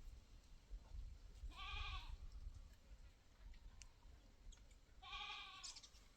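A goat bleating twice, faintly, each call about half a second long and a few seconds apart, over a low rumble.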